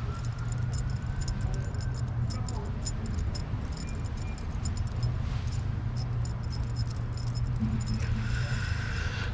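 Small metal tools or parts clinking and rattling in quick irregular clicks, over a steady low hum.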